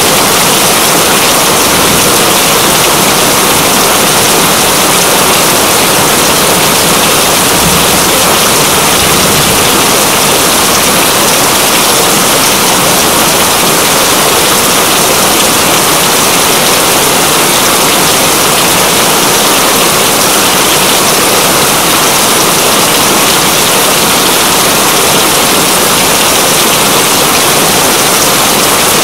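Steady heavy rain: a loud, even hiss of rainfall that does not change.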